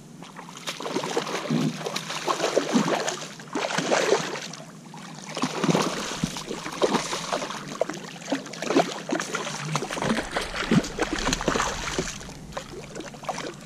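Water splashing and sloshing at the side of a kayak as a hooked striped bass is brought in, with irregular knocks and clatter.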